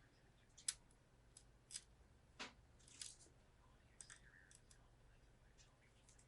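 Faint, scattered clicks and taps of small computer parts being handled, about eight in all, the sharpest about a second in.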